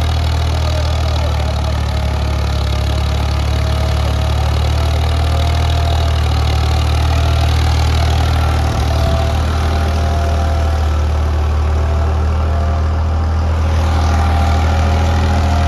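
Ford 3610's three-cylinder diesel engine running steadily under load as the tractor pulls a heavily loaded sugarcane trailer, a constant low drone with no change in speed.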